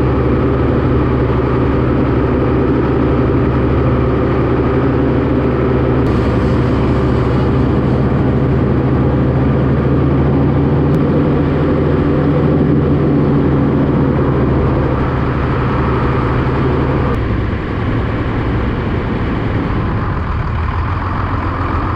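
Tractor engine running steadily, its note dropping and easing off about three quarters of the way through.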